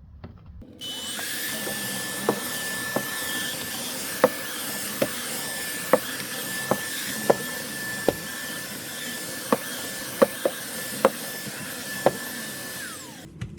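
Trucozie T350 cordless stick vacuum running with a steady high whine as it cleans steps, with scattered sharp ticks of grit being sucked up. The motor starts about a second in and winds down near the end, its pitch falling.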